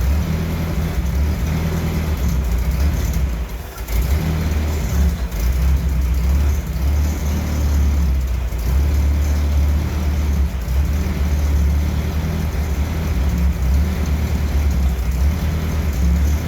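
1968 M151A1 jeep's four-cylinder engine running steadily, kept going on gasoline fed into the carburetor by hand because it needs a new fuel pump and a carburetor rebuild. It stumbles briefly about four seconds in, then picks up again and runs evenly.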